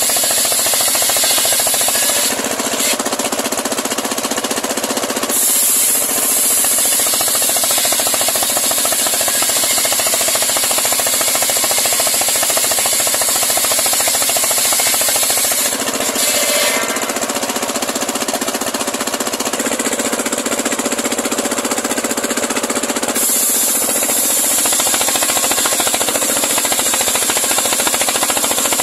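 Homemade circular sawmill running and sawing through a large pule log, a loud steady machine-and-blade noise. Its tone shifts twice, for a few seconds about two seconds in and for several seconds after the midpoint.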